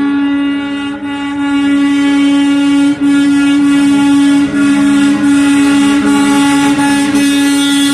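Truck air horn sounding one long, loud blast, held nearly the whole time with a few brief breaks.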